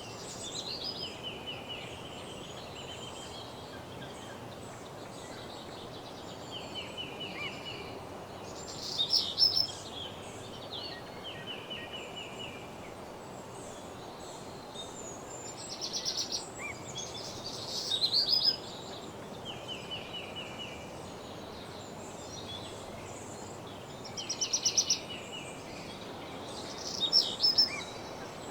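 Songbirds singing in repeated short trilled phrases, several louder phrases coming in pairs, over a steady background hiss.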